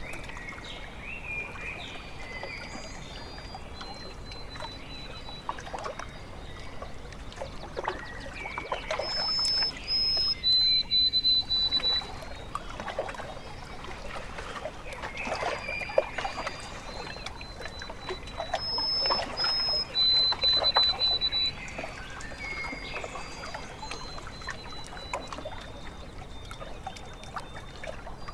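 Small waves lapping and splashing at a lake shore, irregular and continuous. A bird sings high, clear notes over it, loudest in two runs, about a third of the way in and again about two-thirds in.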